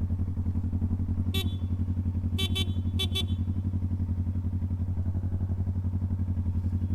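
Motorcycle engine running steadily with an even pulse. A horn gives short beeps over it: one, then two quick pairs.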